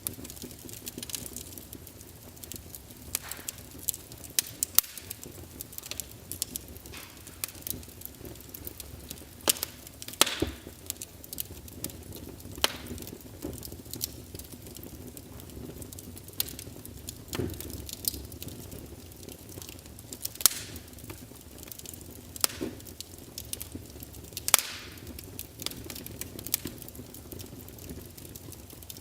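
Wood fire crackling in a fireplace: irregular sharp pops and snaps, a few louder ones among many small ticks, over a steady low rush of the flames.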